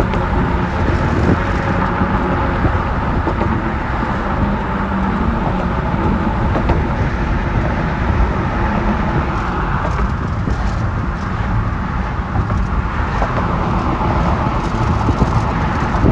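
Wind blowing steadily, a dense rushing noise heaviest in the low end.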